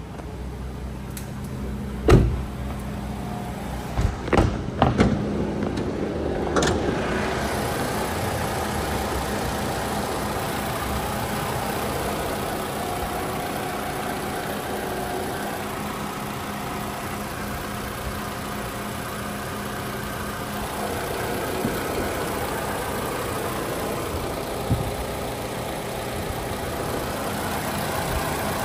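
2016 Toyota RAV4's 2.5-litre four-cylinder engine idling steadily. A few knocks come in the first five seconds, the loudest about two seconds in. From about seven seconds in the engine sounds louder and fuller, heard with the hood open.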